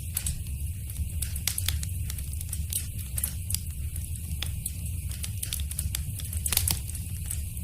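Wood fire crackling in a fireplace: irregular sharp pops and snaps over a steady low rumble, with a brief flurry of louder pops about six and a half seconds in.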